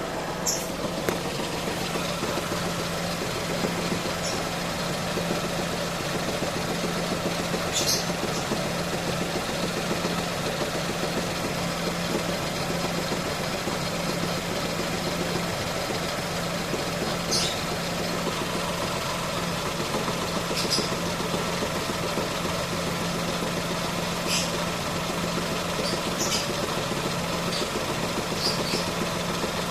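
2017 Ford Ka engine idling steadily with an even hum, with short high-pitched ticks every few seconds at uneven spacing. It is an engine whose owner hears a strange noise from it.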